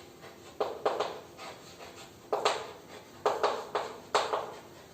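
A series of about ten light, irregular taps or knocks, some coming in quick groups of two or three, in a small room.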